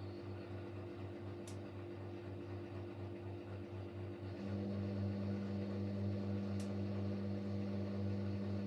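Siemens Siwamat Plus 574 washing machine running in its third intermediate spin between rinses, with a steady electric hum. The hum pulses for the first half and grows a little fuller about halfway through, with a faint click twice.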